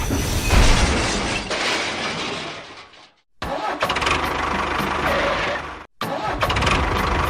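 A motor running with a steady, noisy mechanical sound in short stretches that cut off abruptly to silence about three seconds in and again about six seconds in.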